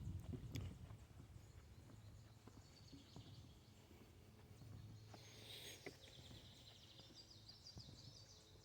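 Near-quiet outdoor ambience: faint distant bird trills, and a few soft footsteps on a wooden boardwalk.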